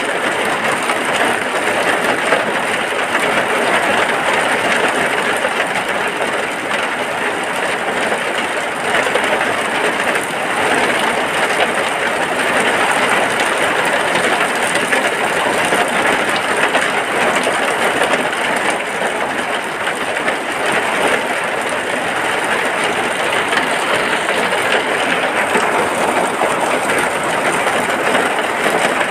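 Steady rain falling on a hut, a dense even hiss of drops with no breaks or changes.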